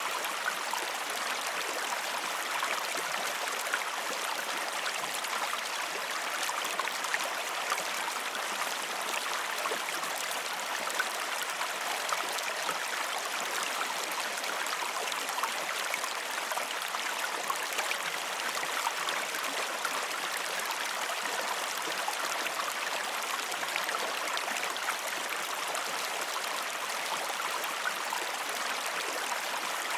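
River water flowing over rocks: a steady rushing with fine splashing and gurgling.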